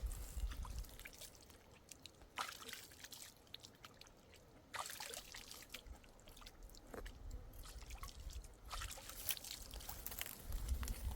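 Water sloshing and trickling in uneven bursts, with scattered small clicks and knocks.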